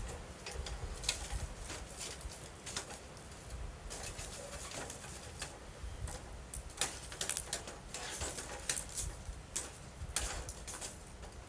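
Wood campfire crackling, with scattered sharp pops and snaps over a low rumble of the flames.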